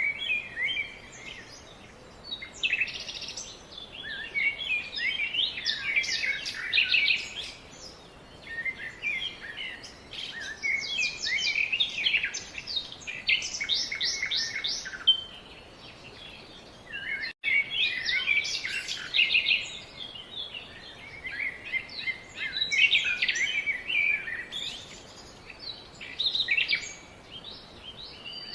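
Several songbirds chirping and calling over one another in a busy chorus: quick runs of short, high chirps and trills that come and go in bursts, with a split-second drop-out just past the middle.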